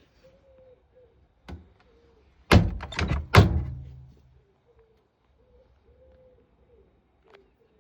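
Door of a Zanussi Flexi Dose washing machine being handled and shut: a light knock, then about a second later three heavy thunks in quick succession.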